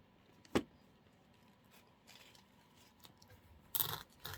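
Craft materials being handled on a work table: one sharp knock about half a second in, then a brief rustle, like artificial flower stems and leaves being moved, near the end.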